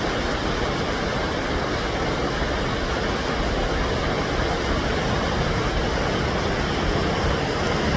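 Swollen river rushing, high and muddy after heavy rain and snowmelt: a steady, loud roar of water.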